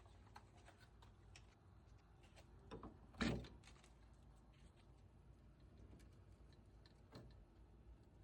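Near silence with faint scattered clicks and one short knock about three seconds in.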